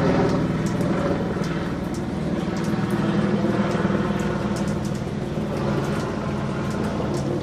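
A motor vehicle's engine running steadily, with scattered light ticks over it.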